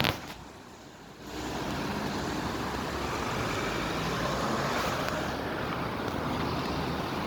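Steady street noise of motor traffic, with a low engine hum. The sound drops for about a second near the start, then carries on evenly.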